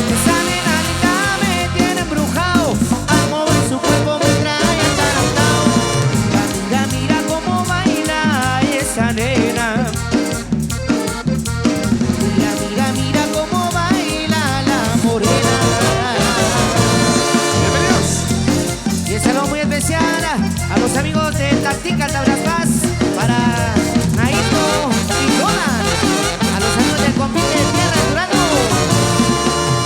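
Live Latin dance band playing an instrumental passage of a cumbia-style song with a steady dance beat and no singing.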